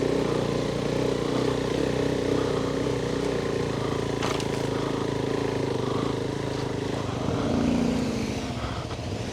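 Adventure motorcycle engine running steadily at low speed on an off-road forest trail, with a short rise in pitch near the end and a brief tick about four seconds in.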